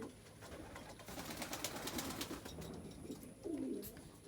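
Racing pigeons cooing in the loft, low warbling calls with the clearest one near the end, over a stretch of rustling and clicking in the middle.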